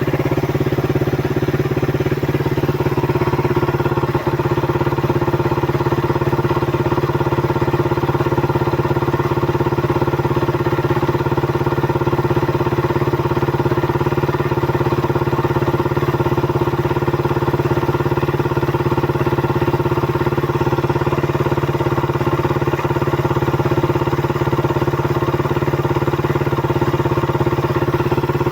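Suzuki Raider 150 motorcycle engine running steadily at an unchanging speed.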